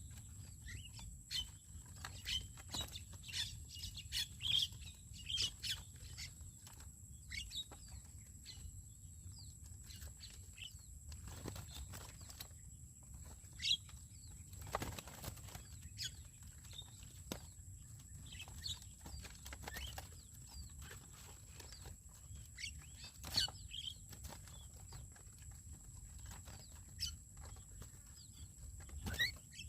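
Birds calling with many short, scattered chirps and sharp clicks, over a steady thin high-pitched whine and a low rumble.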